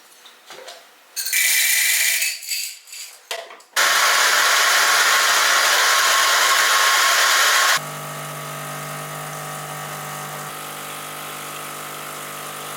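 A small electric motor appliance: a brief loud run, then a longer loud steady run. About eight seconds in it drops to a quieter, steady humming whir, like a lower speed setting.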